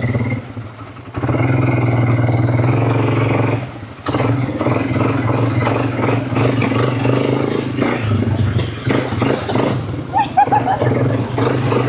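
Quad bike engine running under throttle. It drops off briefly about a second in and again near four seconds, then pulls steadily again.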